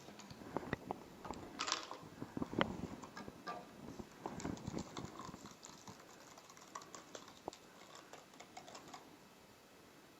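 Small objects being handled on a tabletop: scattered light clicks, taps and knocks, busier in the first half and stopping near the end.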